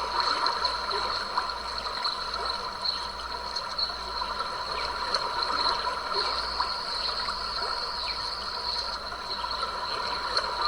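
Creek water trickling and gurgling, with a steady high-pitched drone of insects over it that grows louder for a few seconds in the middle.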